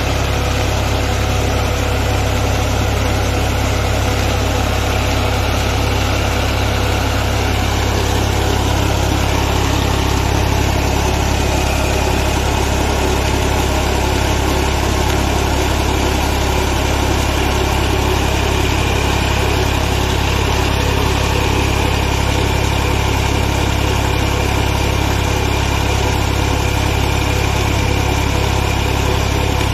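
Tractor's diesel engine running steadily, driving an old tubewell pump by a belt off its rear tyre: an even, unchanging drone.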